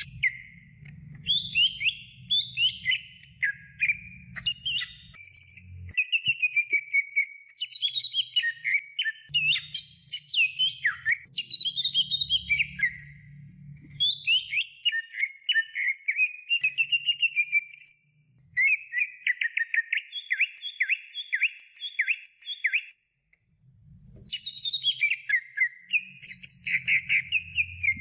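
Greater green leafbird (cucak hijau) singing a long, varied song of rapid whistled and chattering phrases, including a run of quickly repeated down-slurred notes. The song breaks off briefly a little before the end and then resumes.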